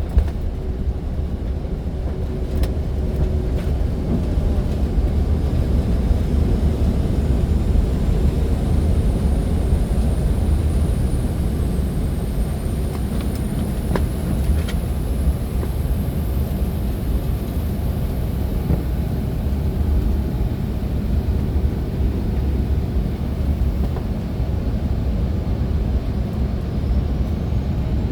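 CRJ-900 regional jet's engines running, a steady low rumble with a faint high whine that climbs slowly over about ten seconds.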